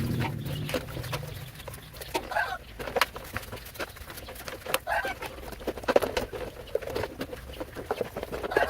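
A bird calling a few times in short bursts, over scattered clicks and knocks.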